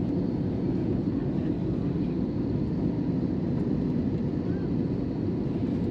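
Steady low rumble and rush of an Airbus A321 airliner in flight, heard from inside the cabin: engine and airflow noise.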